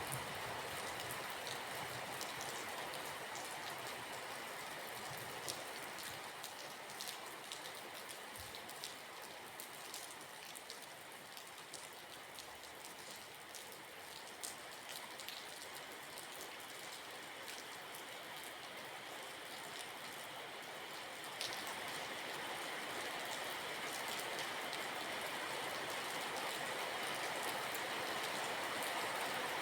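Steady rainfall with many individual drops tapping. It eases slightly in the middle and grows heavier again toward the end.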